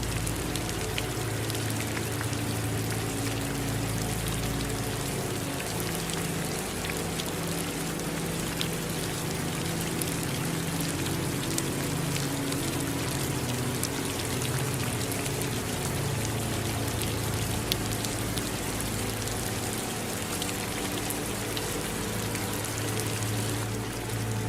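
Steady rain, with individual drops pattering, over running water. A low, steady drone sits underneath.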